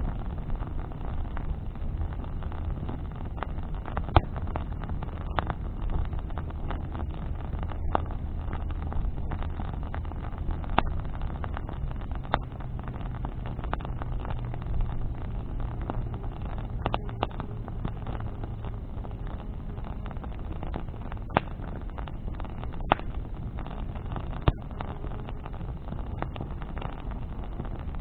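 Bonfire of branches crackling, with sharp pops every few seconds over a steady low rumble. A low engine drone runs under it for the first two-thirds, rising in pitch about halfway through, then fading.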